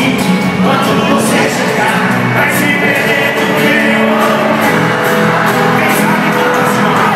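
Live sertanejo band playing, with voices singing over it.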